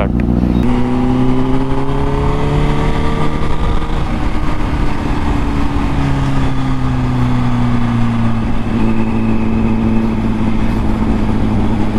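Honda Fireblade's inline-four engine running on a cold start after sitting unused for days, its idle pitch drifting slowly up and then settling lower.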